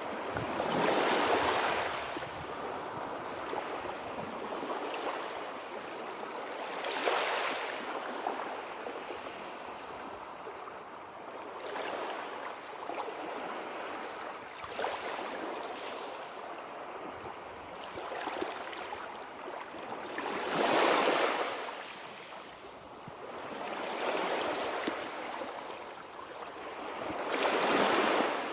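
Sea waves washing in, a steady hiss of surf that swells into a louder surge every few seconds, strongest about a second in, around 7 s, around 21 s and near the end.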